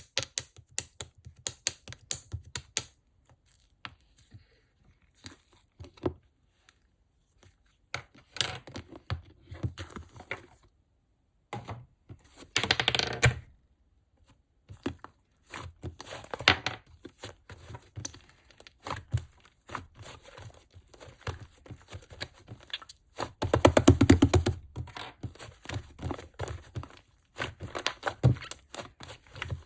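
Slime being squished and pressed by hand: a run of small sticky clicks and pops, with longer, louder crackling squelches about halfway through and again near three-quarters through.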